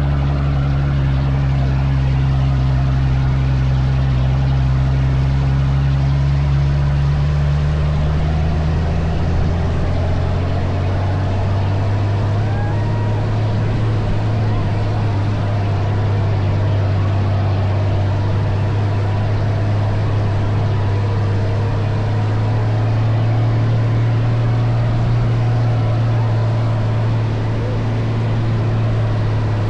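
Dune buggy engine running steadily, its pitch dropping about nine seconds in and then holding lower for the rest of the ride.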